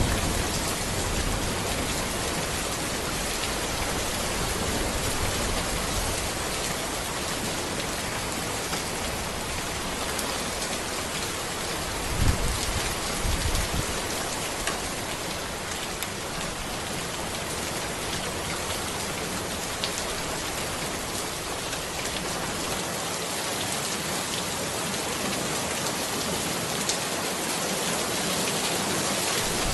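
Steady rain falling on a road and trees, a dense even patter with fine individual drop ticks, and one brief low thump about twelve seconds in.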